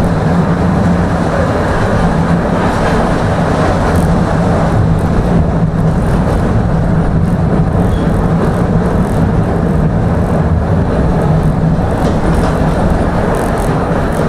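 Tram running between stops, heard from inside the passenger car: a steady rumble of the car and its wheels on the rails, with a steady low hum underneath.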